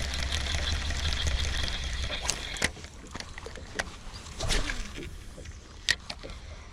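Water lapping and splashing around a small boat, with a low wind rumble on the microphone that drops away after about two and a half seconds. Several sharp clicks are scattered through it.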